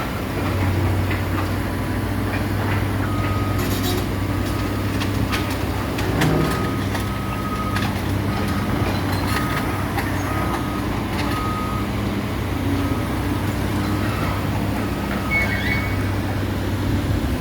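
A heavy construction machine's engine running steadily, with a reversing alarm beeping over and over at one pitch. A few clanks and knocks come through around a third of the way in.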